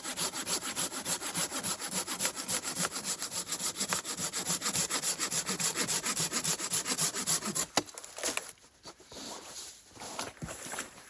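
Hand saw cutting through a limb of a fallen tree with quick, even back-and-forth strokes. The sawing stops about eight seconds in with a sharp crack, followed by quieter scattered rustling.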